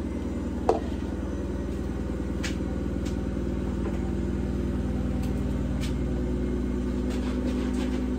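Washing machine on its spin cycle: a steady low motor drone, with one sharp knock about a second in and a few faint ticks. The machine is spinning the washing out again after a home fix.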